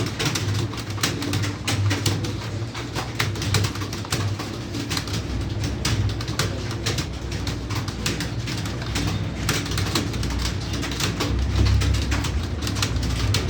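Computer keyboard being typed on steadily, a fast irregular clatter of key clicks over a low, uneven drone.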